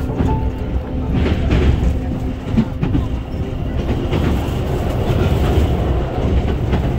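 Train running at speed, heard from inside the carriage: a steady low rumble with the clacks of wheels over rail joints scattered through it.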